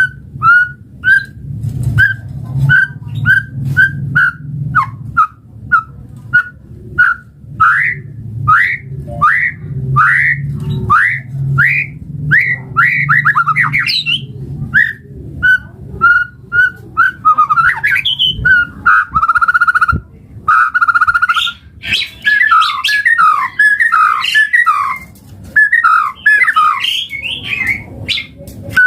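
White-rumped shama (murai batu) singing. It starts with a run of short, clear whistled notes repeated about twice a second, which turn into faster, varied sweeping phrases and trills in the second half. A low steady hum runs under the first half.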